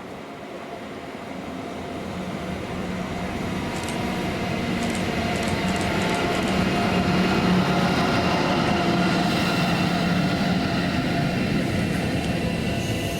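Electric locomotive-hauled passenger train approaching and passing, growing louder over the first several seconds, with a steady multi-tone whine from the locomotive's motors and fans. A few sharp wheel clicks over rail joints come about four to six seconds in.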